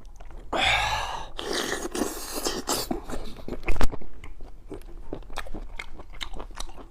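Close-up eating sounds of a person chewing sea snail meat: two longer wet, noisy stretches in the first few seconds, then a run of quick smacking mouth clicks with one sharp snap about four seconds in.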